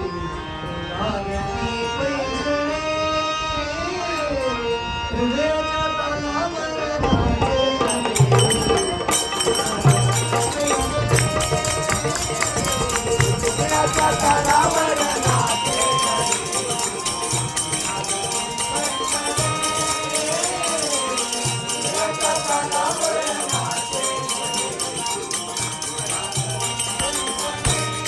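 Devotional bhajan music: a harmonium holds steady chords while a voice sings a gliding melody, accompanied by hand-drum strokes. From about nine seconds in, a steady jingling of small cymbals joins and keeps the beat.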